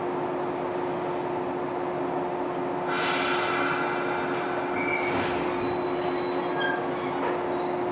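113-series electric train starting to pull away from the platform. A steady electrical hum runs under it; about three seconds in a high, many-toned ringing comes in as it starts to move, with short wheel squeals a little later.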